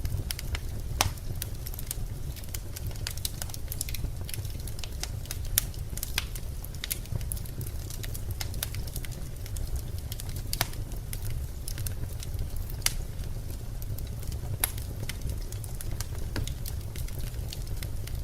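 Wood fire burning, crackling and popping irregularly with sharp snaps, over a steady low rumble.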